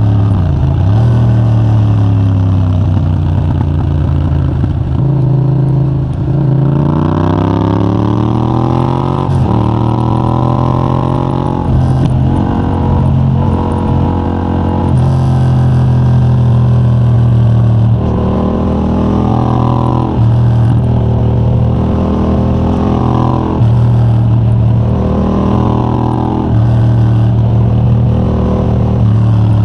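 Yamaha MT-07 689 cc parallel-twin through a de-catted Mivv GP Pro titanium exhaust, accelerating hard through the gears. The revs climb and drop again and again as the rider shifts and rolls off the throttle.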